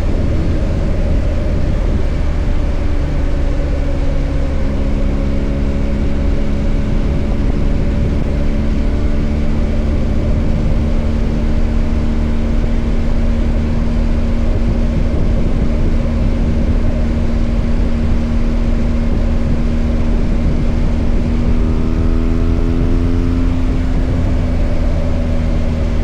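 BMW R 1250 GS Adventure's boxer-twin engine running steadily under way, over a heavy low rumble. The engine note drops at the start, holds level, then rises slightly again near the end.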